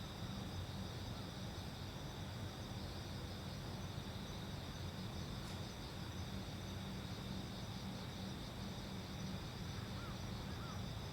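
Crickets or other night insects trilling steadily over a low, steady hum, with a couple of faint short chirps near the end.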